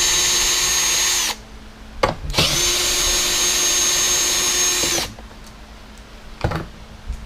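Cordless power drill running at a steady, even whine. It stops about a second in, then runs again for about two and a half seconds. A single knock follows near the end.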